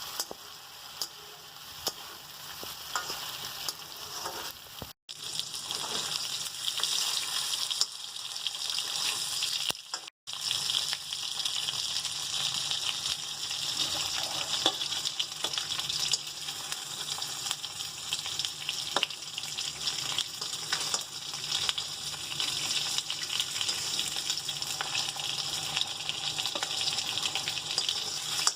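Food frying in a pan with a steady sizzle, stirred with a utensil that gives scattered clicks and scrapes against the pan. The sound drops out abruptly twice, about five and ten seconds in.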